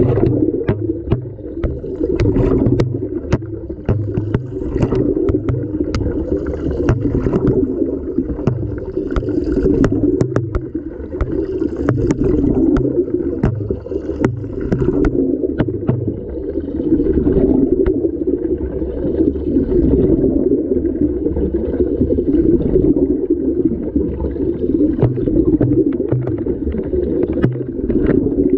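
Muffled water sloshing and laundry tumbling inside an LG washing machine drum, heard from within the camera's housing, with irregular clicks and knocks from things striking it.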